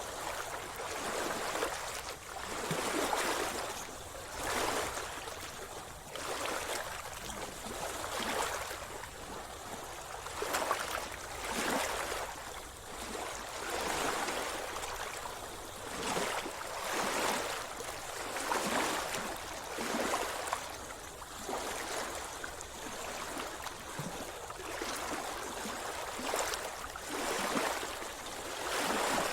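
Sea water splashing and sloshing with a swimmer's strokes, in repeated swishes about every one and a half to two seconds.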